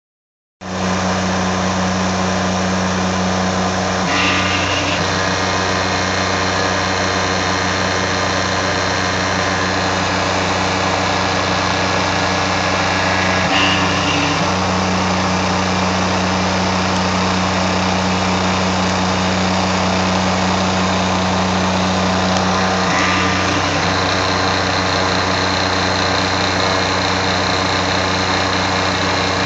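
Tormach 770 CNC mill end-milling steel with a half-inch three-flute solid carbide end mill at 2,000 rpm: a steady cutting hum with a low tone. It starts just after the opening and shifts briefly three times, about every nine or ten seconds.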